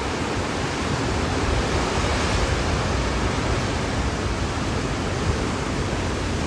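Hurricane wind blowing steadily, with gusts buffeting the microphone in a low rumble.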